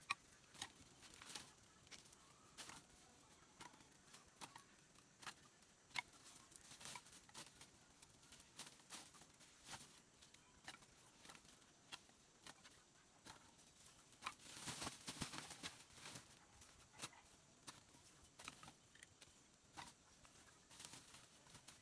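Faint, scattered clicks and light rustling, irregular throughout, with a busier stretch of rustling about fifteen seconds in.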